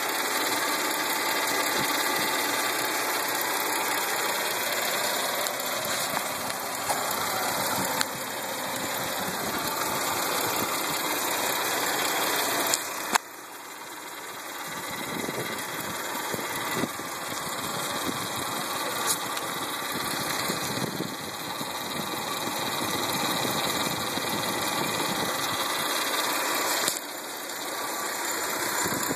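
2009 Hyundai Santa Fe engine running at idle with a steady, hissy noise over it, the strange engine noise the owner is showing. Loudness drops suddenly with a click about halfway through, and again briefly near the end.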